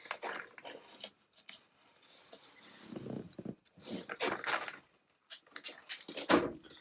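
Irregular scraping, rubbing and light knocks, as of tools and metal parts being handled by hand, with no motor running.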